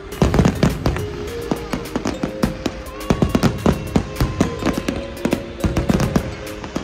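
Fireworks going off in rapid, dense succession, many sharp bangs and crackles a second, with steady musical tones underneath.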